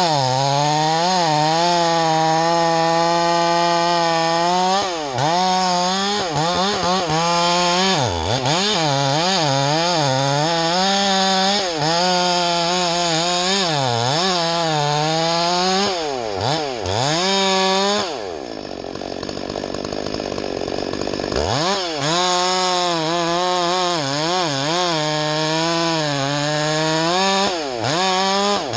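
Two-stroke chainsaw running at high throttle while cutting wood, its engine pitch dipping and recovering again and again as the chain loads up in the cut. About eighteen seconds in it drops back toward idle for a few seconds, then revs up again and carries on cutting.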